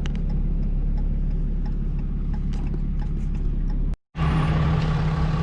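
Vehicle engine running with a steady low rumble and scattered light ticks, cut off abruptly about four seconds in and followed by a steadier engine hum.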